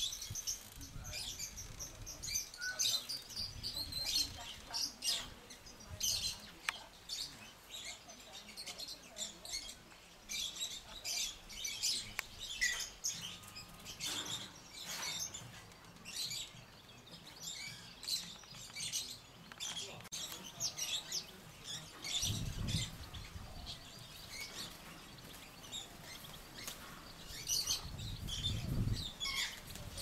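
Birds chirping and tweeting, many short, high calls in quick succession with hardly a break. A low rumble comes twice in the later part.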